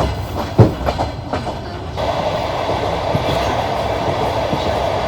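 Passenger train wheels clacking over rail joints, heard from inside the carriage, with one sharp clack about half a second in. From about two seconds in the clacks give way to the steady noise of the train rolling along.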